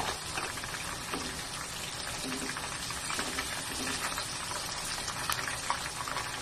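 Chicken wings frying in shallow oil in a wok: a steady sizzle with small crackling pops.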